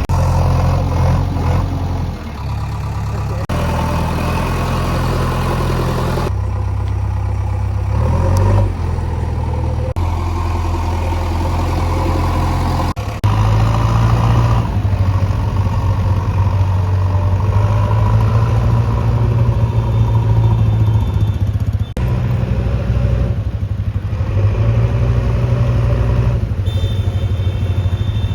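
Heavy diesel engines of a tractor and backhoe loader running and revving under load, in several short clips that cut abruptly from one to the next.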